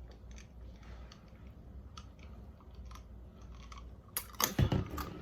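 Close-miked mouth sounds of someone drinking from a large cup: faint swallowing and small wet clicks, then a cluster of louder clicks with a dull low thump near the end.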